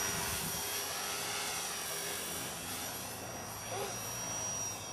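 Align T-Rex 250 electric RC helicopter in flight: a steady, high whine from its electric motor and rotor over a broad hiss.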